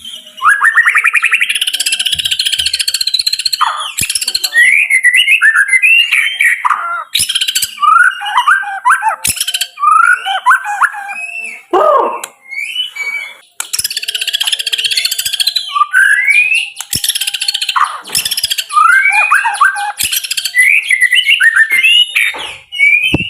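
White-rumped shama (murai batu) singing a loud, varied song: rapid repeated notes, whistled phrases that glide up and down, and harsh rasping notes scattered through it.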